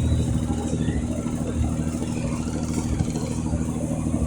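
Boat engine running at a steady speed, a constant low motor drone.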